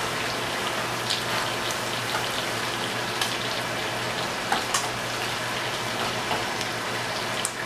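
Steady sizzle of food frying in butter in skillets, with a few light clicks and scrapes as a metal spatula stirs rice-and-pasta mix in the pan.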